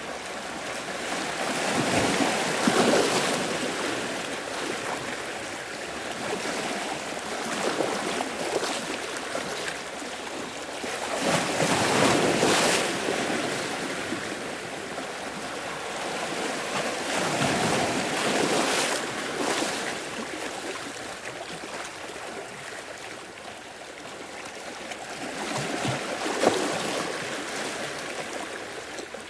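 Sea waves washing ashore, each swell rising and then falling back, about every five to six seconds with some larger surges.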